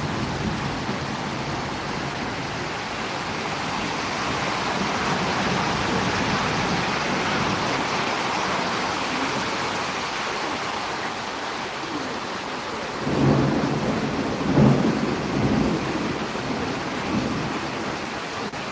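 Steady rain during a storm, with a few low rumbles of thunder about two-thirds of the way through.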